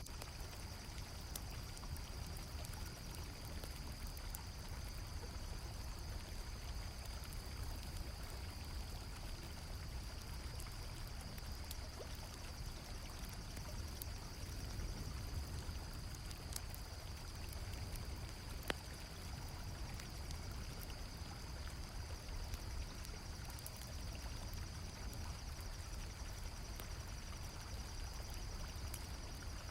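River water flowing steadily, with crickets trilling in an unbroken high band and a campfire crackling in scattered pops, one sharper pop about two-thirds of the way through.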